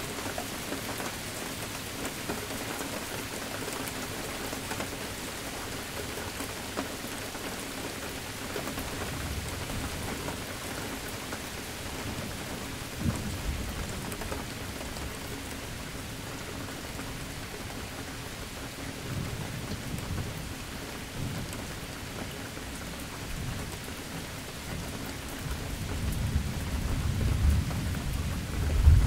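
Steady rain falling with thunder: a low rumble about a third of the way in, a sharper clap soon after, another rumble past the middle, and a louder rumble building near the end.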